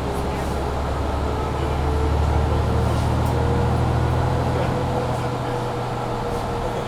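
Mercedes-Benz Citaro C2 G articulated bus heard from inside, its diesel engine running steadily under way. The engine note shifts just at the start and then holds, with a steady thin hum running above it.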